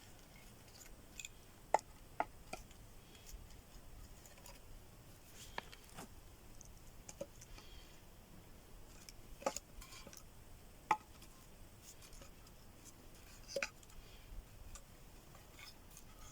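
Scattered sharp wooden clicks and knocks, about a dozen, of sticks being handled and laid crosswise while stacking a log-cabin ('well') campfire lay.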